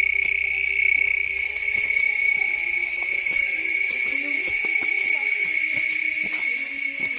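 Night-time forest insects: a steady, high, continuous cricket-like trill, with a second insect's short chirps repeating about once or twice a second.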